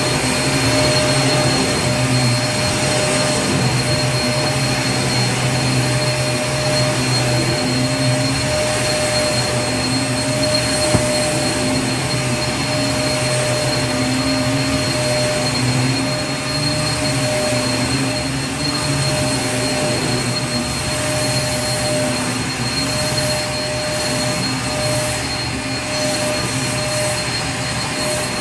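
Vacuum cleaner running steadily: a continuous whooshing rush of air with a constant motor whine and hum.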